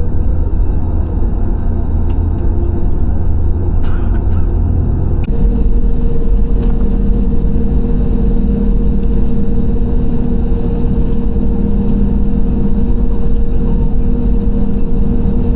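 Airliner cabin noise heard from a window seat: the aircraft's engines and airframe make a steady low rumble with a constant hum. About five seconds in, after a brief knock, the rumble shifts and grows a little louder.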